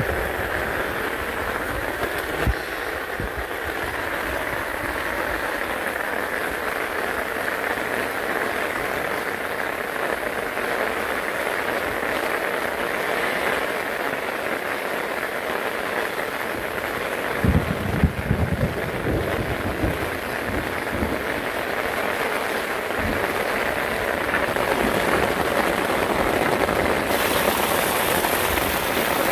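Steady, heavy torrential rain pouring down, with rushing water, and a few low thumps about two-thirds of the way through.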